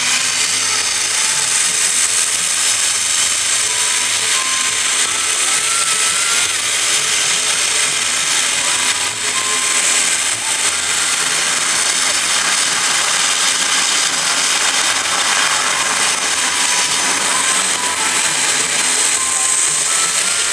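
Military aircraft's turbine engines running steadily: a loud, even rushing noise with faint higher tones through it.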